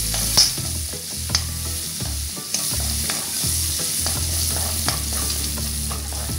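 Shallots and curry leaves sizzling in hot coconut oil in a metal wok, stirred with a metal ladle that scrapes and clicks against the pan, with a sharper knock about half a second in.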